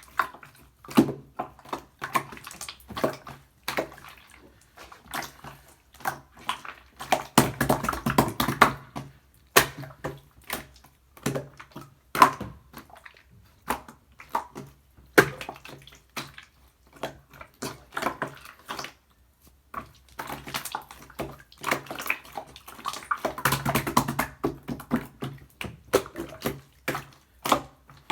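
Clear, colourless slime being squeezed, poked and folded by hand, giving wet clicks, pops and squelches. Twice, the pops come fast and close together as the slime is worked quickly.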